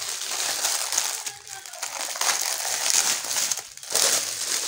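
Packaging crinkling and rustling in irregular bursts as fridge mats are handled and unwrapped.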